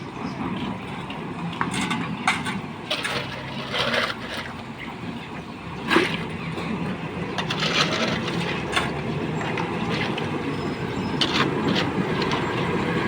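A heavy engine runs steadily at a worksite, with scattered knocks, clacks and scrapes over it. The sharpest knock comes about six seconds in.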